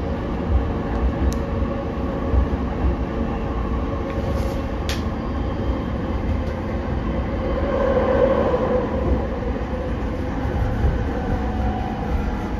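Interior running noise of a JR E231 series commuter train in motion: a steady rumble of wheels on rail with a steady hum, and two sharp clicks at about one and five seconds in.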